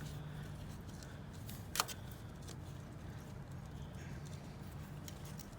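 A multi-tool poking a new seal into an excavator's swing bearing gives faint, scattered clicks and taps, with one sharper click about two seconds in, over a steady low hum.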